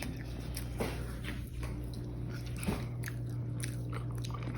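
A person biting and chewing a chicken and cheese sandwich, with scattered small crunching clicks over a steady low hum.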